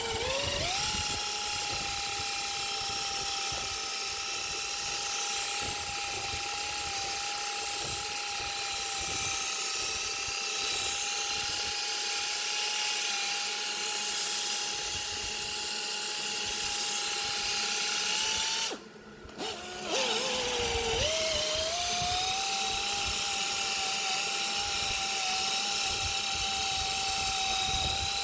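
A hand power tool whining at a steady high pitch. It spins up at the start, is switched off for about a second two-thirds of the way through, then spins back up to the same speed.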